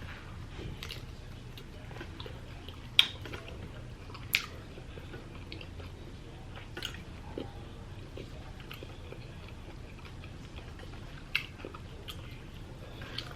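A person chewing food close to the microphone, with scattered mouth clicks and a few louder sharp clicks.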